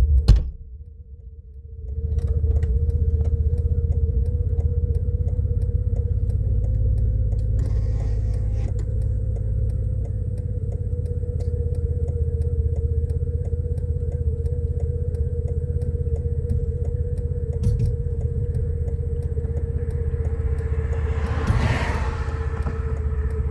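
Steady low rumble of a motor vehicle with a constant hum above it. The sound drops out briefly near the start, and a short swell of louder noise rises and fades about three-quarters of the way through.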